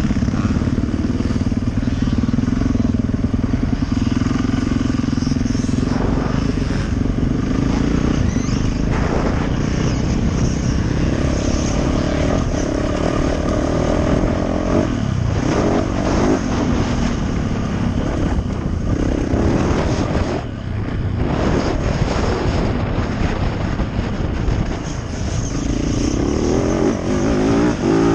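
Yamaha YZ450F motocross bike's four-stroke single-cylinder engine running hard on a dirt track, its revs rising and falling with the throttle. The engine backs off briefly twice in the middle.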